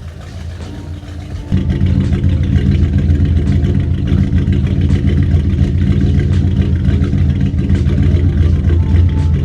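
Mercruiser 350 5.7-litre small-block V8 marine engine running steadily, suddenly much louder about a second and a half in.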